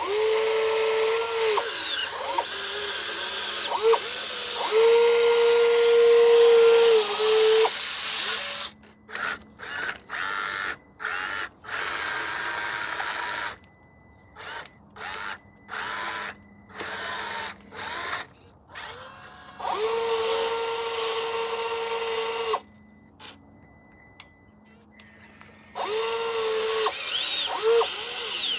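Electric motors of radio-controlled construction models whining in repeated bursts, starting and stopping with short pitch glides, with a run of quick on-off blips about a third of the way in.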